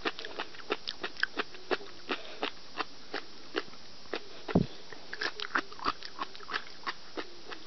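A person chewing food close to the microphone: quick, irregular wet clicks and smacks, about three a second. There is one low thump about four and a half seconds in.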